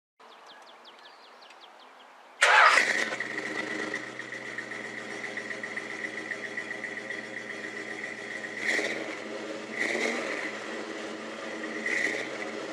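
A 1964 Ford Thunderbird's V8 engine is cranked, catches about two seconds in and settles into a steady run with a high whine over it, then is revved briefly three times.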